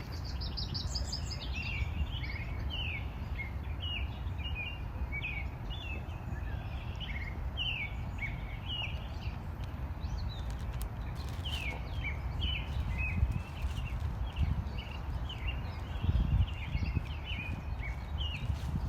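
Songbirds chirping, a steady stream of short, quick calls with a rapid higher twitter about a second in, over a steady low rumble.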